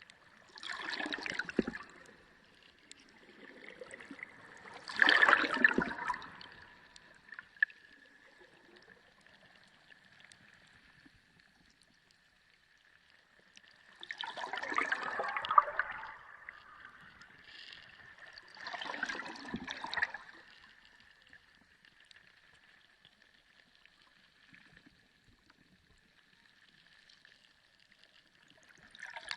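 Underwater sea ambience: irregular bursts of moving water, each a second or two long and several seconds apart, over a faint steady high tone.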